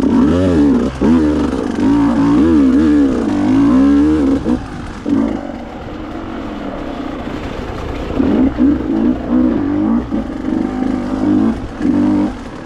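Two-stroke enduro motorcycle engine revved hard and unevenly, the throttle blipped rapidly up and down as the bike is worked over roots on a steep trail. It eases off about five seconds in, then picks up again with a string of short revs near the end.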